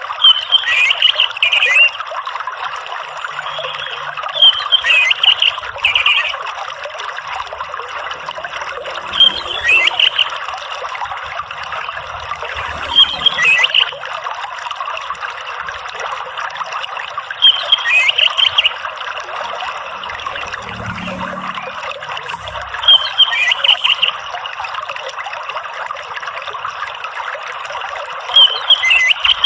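Orange-headed thrush (anis merah) singing short phrases about every four to five seconds, seven in all, over a steady sound of running, trickling water.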